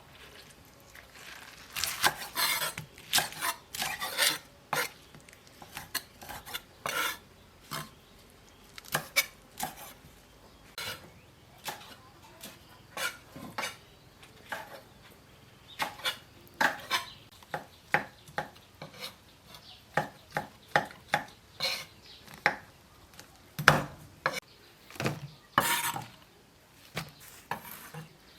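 Kitchen utensils clinking and knocking against pots and dishes in an irregular clatter, as in cooking preparation.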